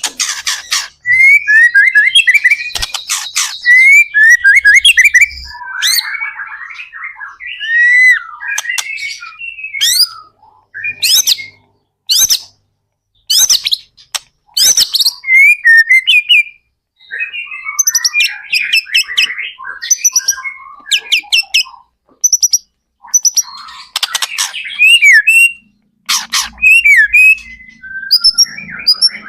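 White-rumped shama (murai batu) singing loudly in continuous rapid phrases: fast whistled notes, upward and downward sweeps and sharp clicking notes, with only short pauses between bursts.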